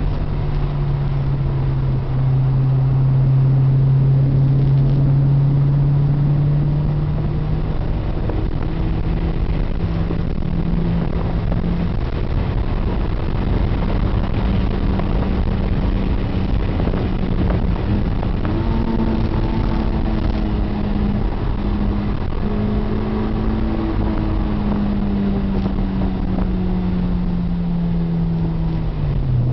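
Honda S2000's four-cylinder engine heard from inside the cabin under hard driving on a race track, with road and tyre noise underneath. The engine note holds low at first, climbs in steps through the middle and eases back, then drops sharply near the end.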